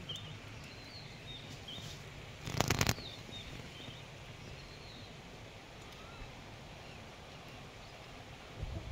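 Steady open-air background with small birds chirping now and then, and a brief loud clatter of several sharp clicks about two and a half seconds in.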